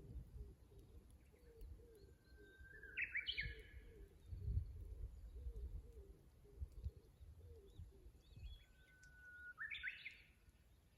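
Japanese bush warbler (uguisu) singing its 'hoo-hokekyo' song twice, about six seconds apart: each time a long held whistle, then a quick rising flourish.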